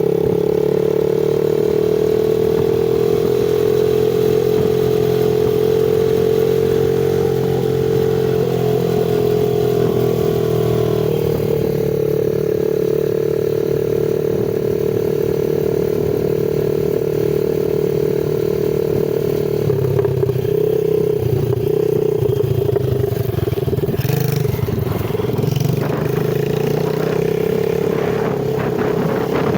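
A 110cc semi-automatic dirt bike's single-cylinder four-stroke engine running under steady throttle. Its note rises a little and then eases off, and in the last third it wavers, with a run of clattering knocks near the end.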